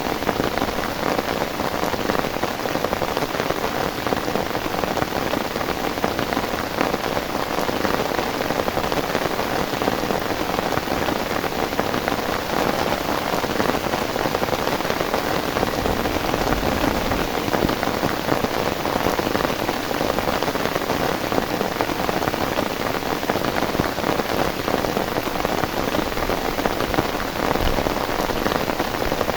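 Heavy rain falling steadily, a dense, unbroken hiss of drops.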